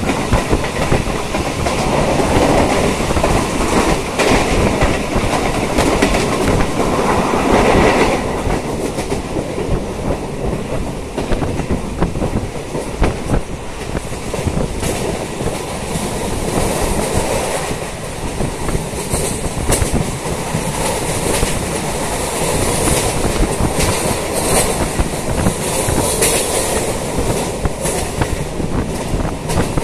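Suburban electric local train running along the track, its wheels clattering steadily over the rail joints. Brief high-pitched wheel squeals come in the second half.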